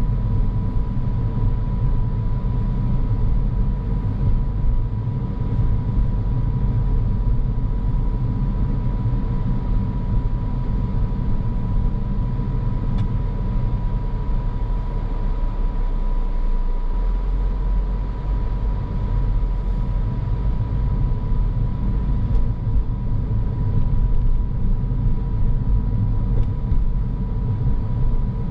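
A car driving along a road: a steady low rumble of tyres and engine, with a thin steady tone above it.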